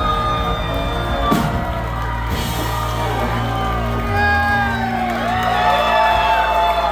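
Live rock band playing with steady bass and sustained guitar notes that bend and glide, with whoops and shouts from the crowd.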